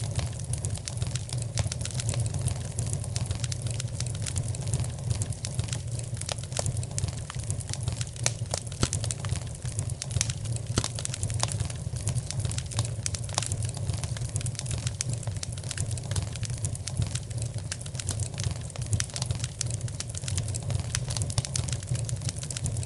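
Fire crackling in a fireplace: frequent sharp pops and snaps over a steady low rumble.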